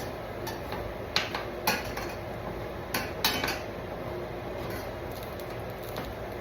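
Metal kitchen utensils clinking against a pan and dishes, four or five sharp clatters in the first half, over a steady hiss.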